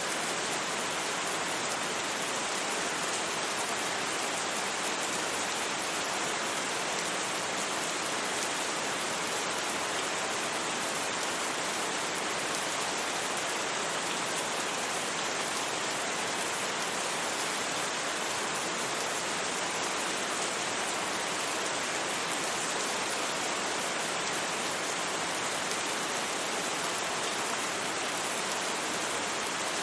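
Steady rain falling on a surface, an even hiss with no thunder and no change in level.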